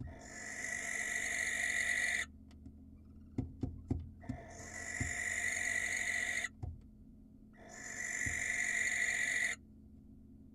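Barn owl giving three long hissing screeches, each about two seconds long and swelling as it goes, with pauses between them. A few sharp clicks or taps come in the pause after the first screech.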